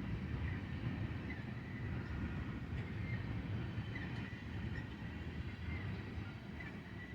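Freight cars of a long train rolling past: a steady low rumble of wheels on rail with short high squeaks about once a second, slowly getting quieter.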